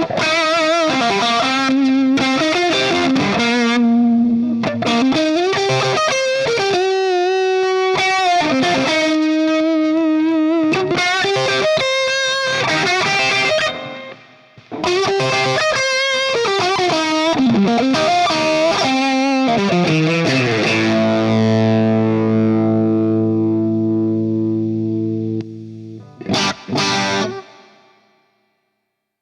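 Overdriven electric guitar, a Siam Custom Guitar through a DemonFX Jan Ray overdrive pedal, playing lead lines with string bends and vibrato, with a brief pause midway. A held chord then rings out, followed by two short stabs, and the playing stops near the end.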